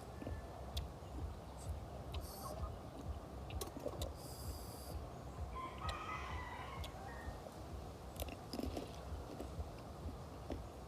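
A bird calling once in the background, about six seconds in, lasting about a second.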